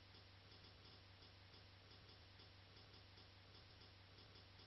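Near silence: faint room tone with a low steady hum and a soft, regular ticking, a few ticks a second.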